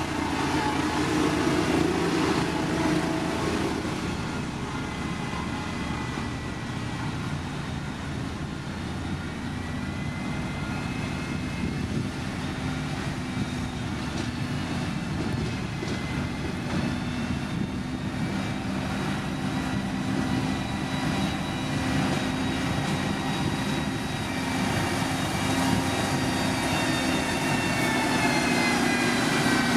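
Diesel engines of heavy earthmoving machinery running steadily, with the engine pitch rising and falling several times.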